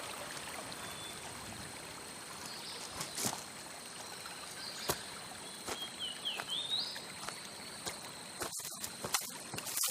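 Jungle ambience: a steady high insect drone over a soft hiss, with a few sharp clicks, some short chirps about six to seven seconds in, and scattered rustling clicks near the end.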